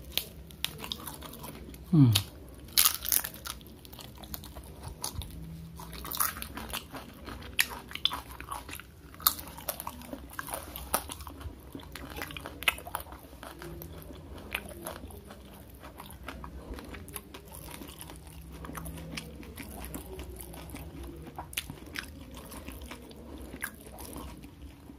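Close-up chewing and biting of crunchy food, rempeyek (a fried peanut cracker) eaten with rice, with sharp crunches scattered throughout, loudest about two to three seconds in.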